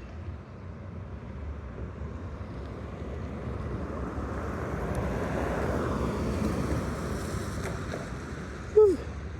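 A car passing with a swelling and fading hiss of tyres on wet pavement, over a steady low traffic hum. Near the end comes a brief loud chirp that falls in pitch.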